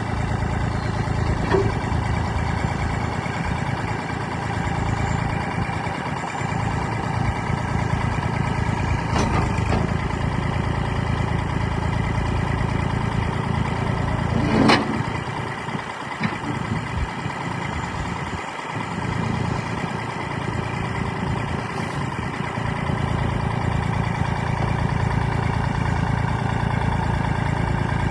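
Kubota L2501's three-cylinder diesel engine running steadily just after starting. One sharp clank about halfway through.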